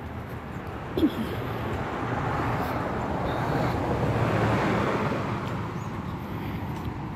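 A passing vehicle: a rushing noise that swells to a peak about four to five seconds in and then fades away, with one sharp click about a second in.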